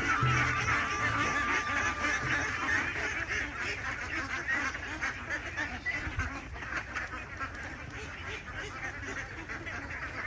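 A flock of farmed ducks quacking over one another in a dense, continuous chatter. Background music fades out in the first couple of seconds.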